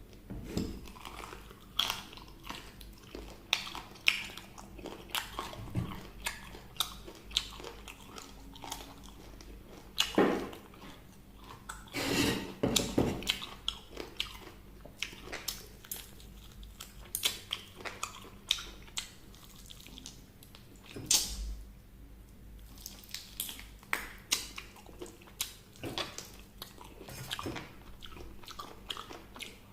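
Close-miked chewing and biting of crispy fried chicken: a steady run of wet mouth sounds and sharp crunches, loudest in a burst about ten to thirteen seconds in and again around twenty-one seconds.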